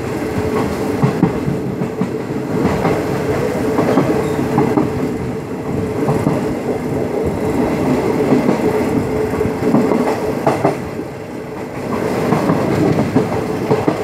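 Passenger train running along the track, heard from a carriage window: wheels clattering over rail joints in a quick, uneven run of clicks, over a steady rumble and hum.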